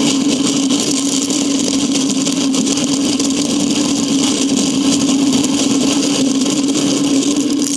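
Vehicle engine idling steadily: a constant hum with an even hiss over it.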